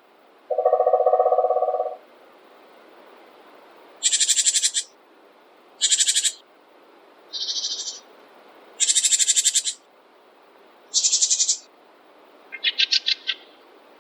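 Wild birds calling in a forest: a low, hoot-like trilled call about half a second in, then a series of short, high, rapidly trilled calls repeating every second or two.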